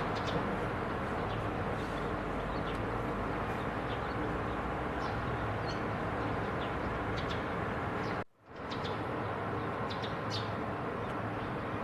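Short, high bird chirps scattered over a steady low background noise. The sound drops out suddenly for about half a second, a little past eight seconds in.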